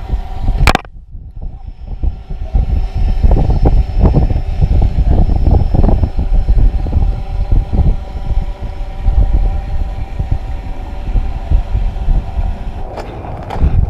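Strong wind buffeting the microphone, with a steady engine hum underneath. A sharp click comes under a second in, followed by a short lull before the gusts return.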